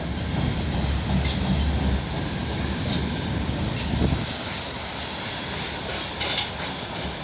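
Freight train's tank cars rolling slowly past, a steady rumble of wheels on rail with a few faint clicks from the rail joints.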